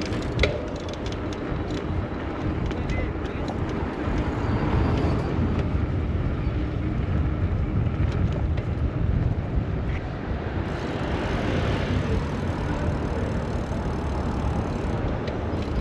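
Street traffic noise heard from a moving bicycle: a steady low rumble with a few sharp clicks near the start and a brighter hiss from about two-thirds of the way in.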